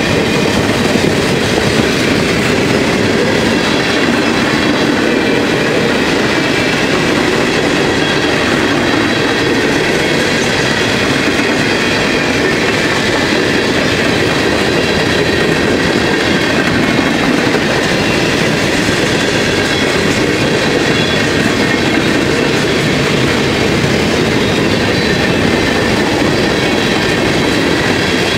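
CSX mixed freight train rolling steadily past, its cars' steel wheels clattering over the rail joints in a continuous rumble, with rain falling.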